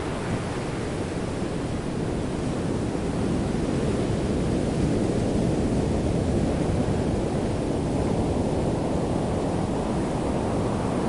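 Underwater ocean ambience, heard with the microphone below the surface: a steady low rushing of seawater with no distinct events, the hiss growing brighter near the end.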